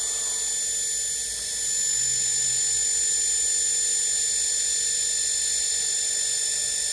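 Washing machine motor running on a DC power supply: a steady high whine made of several fixed tones. It dips slightly about a second and a half in, then settles at a steady speed of around 3,000 rpm.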